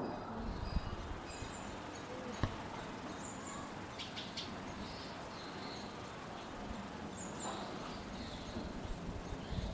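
Outdoor ambience: a steady hiss with scattered short, high bird chirps every few seconds and a few sharp clicks.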